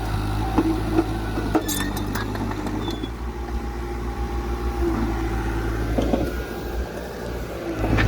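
Heavy diesel engine of earthmoving machinery running steadily, with a few sharp knocks in the first two seconds.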